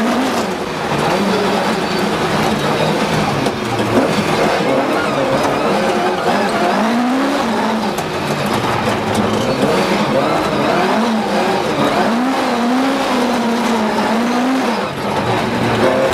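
Ford Escort RS1800 rally car's Cosworth BDA twin-cam four-cylinder engine driven hard, its revs rising and falling again and again through the gears.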